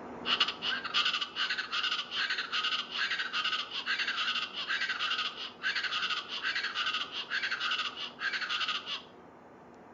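East Brazilian chachalaca calling: a long run of rapid, repeated notes in a steady rhythm with a few brief breaks, cutting off suddenly about a second before the end.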